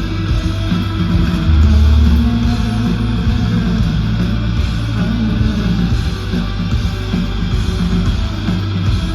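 Live rock band music: electric guitar playing over a steady, heavy bass line.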